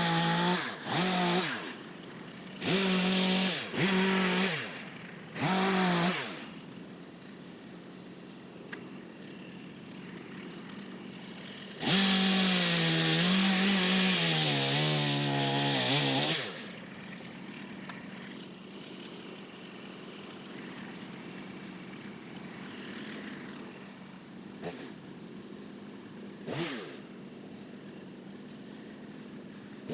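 Two-stroke chainsaw blipped to high revs in five short bursts, dropping back to idle between them. It then idles, is held at full throttle for about four seconds with its pitch sagging as the chain loads up in a cut, and drops back to idle with one more brief blip near the end.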